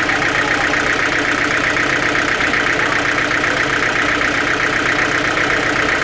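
Sawmill machinery running steadily, an even engine-like drone that does not change.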